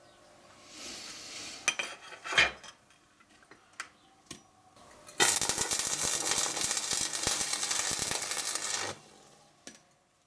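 Light metallic clinks and knocks of steel parts being handled. Then, from about five seconds in, some four seconds of steady crackling from a stick welding arc laying a weld on the steel square tubes.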